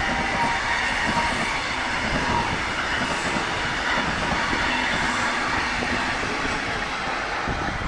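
Metronom regional train of double-deck coaches rolling past: a steady noise of wheels on rail, easing slightly near the end as the last car goes by.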